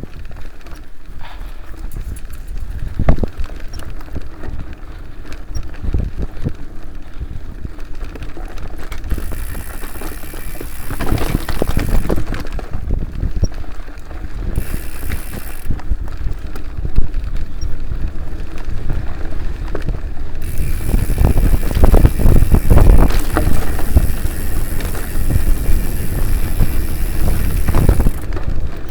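Mountain bike ridden over a rough dirt trail: the frame, chain and parts rattle and knock irregularly over the rumble of the tyres. It gets louder in the second half.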